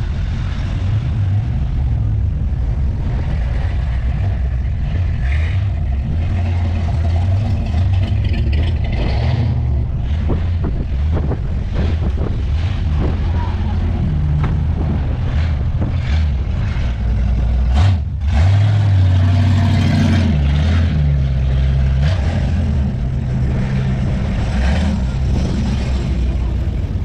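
Engines of classic American cars and trucks rumbling as a convoy rolls past at low speed. About two-thirds of the way through, one engine comes through louder and stays loud for a few seconds.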